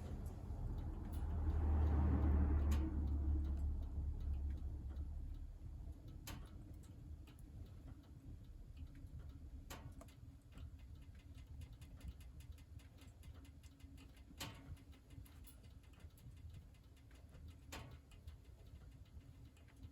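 Firewood crackling in a wood-burning stove: irregular sharp pops and ticks over a low steady rush. A louder low rushing sound swells in the first couple of seconds and fades away.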